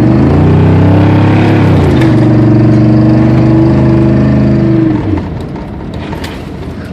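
A 1994 GMC Yukon's engine accelerating hard. Its pitch climbs, dips as the transmission shifts about two seconds in, and pulls up again until the throttle is let off about five seconds in, showing the old truck still has some snort left.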